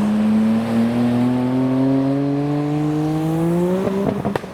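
Car engine accelerating hard, its note climbing steadily, then cut short by a drop in pitch near the end, like an upshift.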